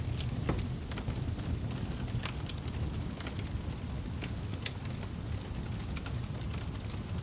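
Wood fire crackling in a fireplace: frequent sharp pops and snaps scattered over a steady low rumble of the flames.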